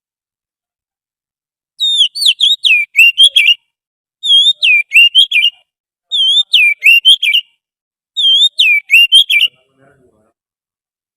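Oriental magpie-robin song from a lure-call recording: four short phrases of clear, sliding whistled notes, with a pause of about half a second to a second between phrases, starting a couple of seconds in.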